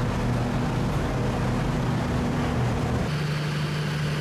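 Steady low machine hum of a parked passenger train idling at the platform, shifting abruptly about three seconds in to a different steady hum.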